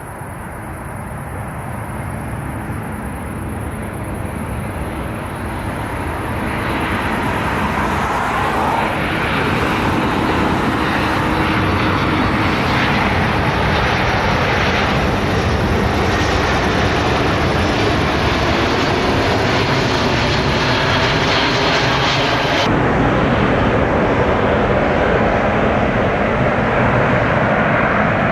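Airliner jet engines growing louder over about the first ten seconds as the aircraft comes near, then holding a steady, loud rush. The sound changes abruptly near the end.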